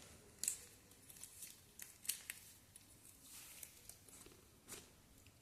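Faint handling noise: a few soft scattered clicks and rustles, the sharpest about half a second in.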